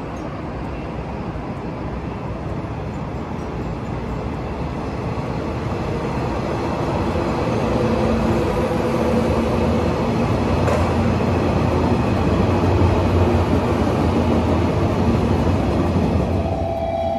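JR Kyushu 415 series electric train running past on the tracks below: steady rolling and motor noise that builds gradually and peaks about three quarters through. It cuts off abruptly just before the end.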